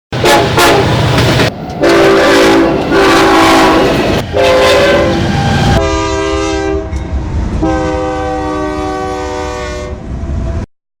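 Freight locomotive air horn blowing four long blasts over the low rumble of the passing train. The horn's pitch drops about halfway through and then gets quieter as the locomotive goes by. The sound cuts off suddenly near the end.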